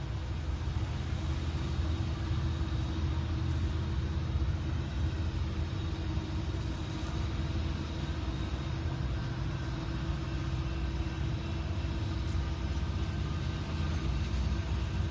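Diesel locomotive engines running with a steady low rumble as a train moves by, between horn blasts.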